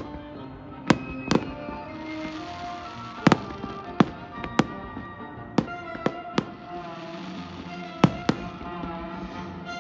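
Fireworks bursting, about ten sharp bangs at irregular intervals, some in quick pairs, over music playing throughout.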